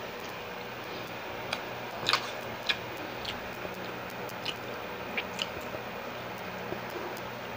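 Close-miked eating sounds of siomai being chewed: soft wet mouth noises and a scattered run of short sharp clicks over a steady background hiss.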